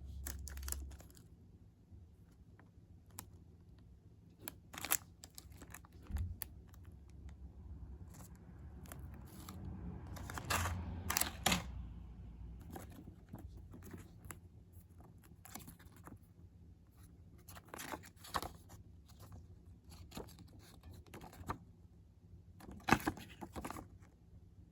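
Hands unboxing a ball-jointed doll: scattered clicks and taps, with a longer stretch of packaging rustling about a third of the way in and the sharpest click near the end.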